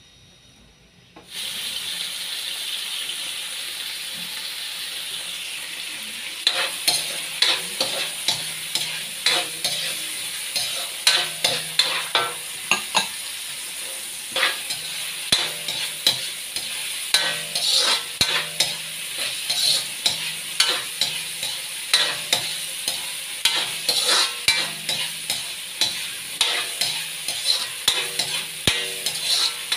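Chopped onion and garlic sizzling in hot oil in a metal wok. The sizzle starts suddenly about a second in. From about six seconds in, a metal spatula scrapes and knocks against the wok in quick repeated stirring strokes over the sizzle.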